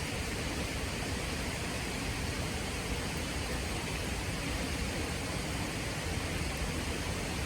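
Steady rushing of river water with a low rumble beneath it.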